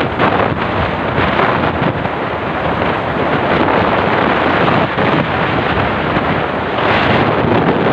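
Heavy rain pouring down steadily, a loud, dense hiss, with wind buffeting the microphone.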